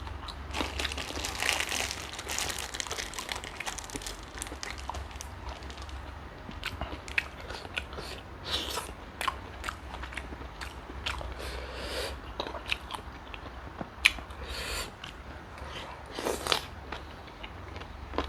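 Close-miked eating: bites, crunching and chewing, with many short irregular clicks and a few louder crunches.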